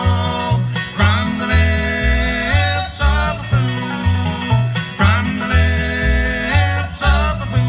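Bluegrass band playing live, with banjo and guitar over low bass notes that alternate on a steady beat.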